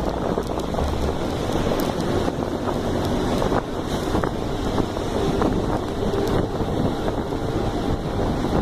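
Steady wind rushing and buffeting the microphone, with the low rumble of a moving vehicle underneath and a few faint ticks.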